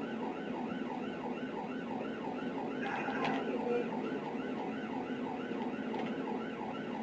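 Police cruiser siren in a fast yelp, rising and falling about three times a second, over a steady drone of engine and road noise.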